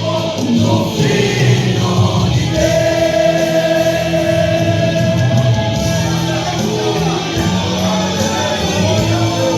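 Christian worship song with sung vocals and backing choir over instrumental accompaniment; a long note is held from about a third of the way in to past the middle.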